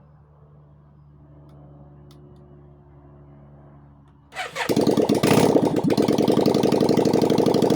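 Yamaha Virago 535's air-cooled V-twin fires up about four seconds in and runs loud and raw through open headers with its exhaust removed, in a rapid pulsing beat. Before it catches there is only a faint low hum.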